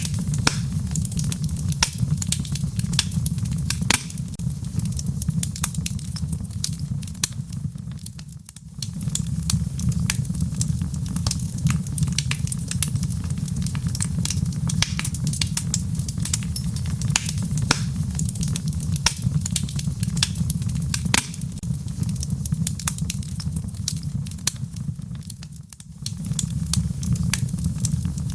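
Wood fire crackling in a fireplace: frequent sharp pops and snaps over a steady low rumble of the flames. The rumble briefly drops away twice, about eight seconds in and near the end.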